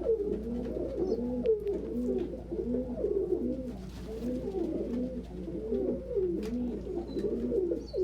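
Several domestic pigeons cooing over one another, their rising and falling coos repeating without a break, over a low steady hum.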